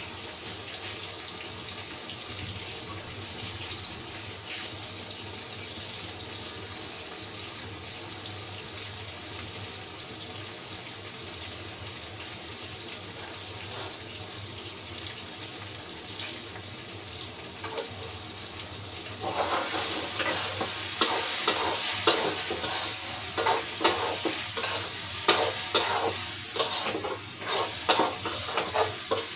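A steady hiss, then from about two-thirds of the way in, a spatula scraping and knocking around a pan of sizzling food in quick, uneven strokes.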